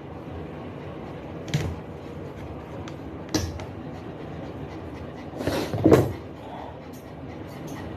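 A few short knocks and bumps over steady background noise, the loudest cluster about five and a half to six seconds in.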